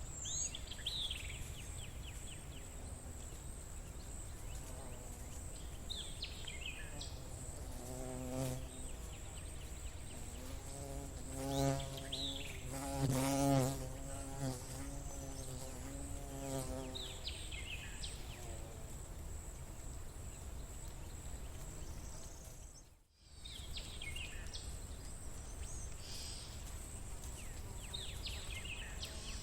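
Nature ambience. A buzzing flying insect drones close by, swelling for several seconds in the middle and then fading away. Under it run a steady high-pitched insect trill and a bird's short falling chirps every few seconds. The sound cuts out for a moment about two-thirds of the way through.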